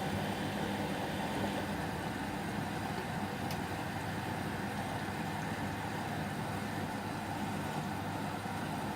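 Whirlpool washing machine running steadily on a 30° delicate cycle, with a low hum from the machine. A faint tick comes about three and a half seconds in.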